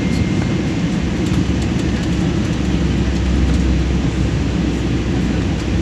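Steady, unbroken low rumble of an airliner's engines and rushing air, heard from inside the passenger cabin in flight.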